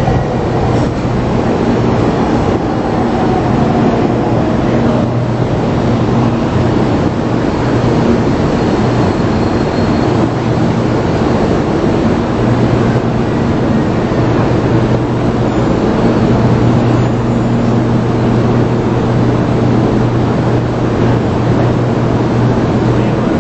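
Taiwan High Speed Rail train at the station platform: a loud, steady rushing drone with a low electrical hum, and a faint tone falling in pitch over the first few seconds as the train slows.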